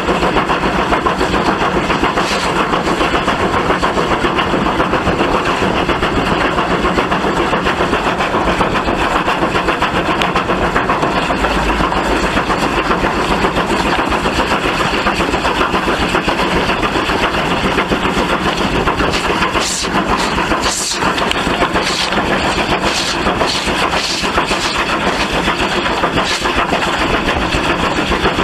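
Steam locomotive working: a loud, steady rushing noise, with a run of sharp clanks late on.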